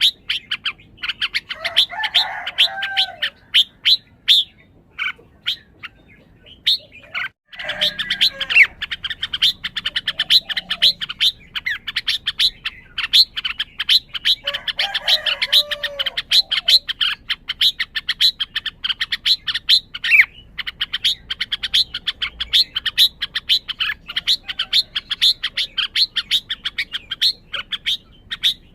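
Red-whiskered bulbul giving a fast, unbroken run of sharp high chirps, several a second, with a few lower warbled phrases mixed in; the run breaks off briefly about seven seconds in. The owner wonders whether this display means the bird is highly worked up.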